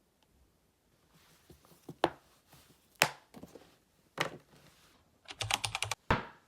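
Sharp, separate knocks on a hard surface, then a quick run of about nine taps just before a final knock.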